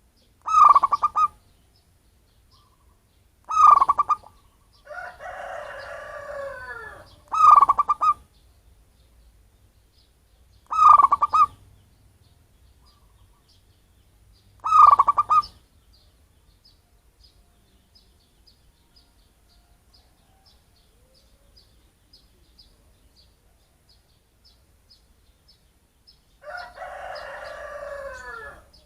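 Zebra dove (perkutut) cooing: five short, loud, rapidly pulsed coo phrases a few seconds apart. Two longer, softer and rougher calls come about five seconds in and near the end.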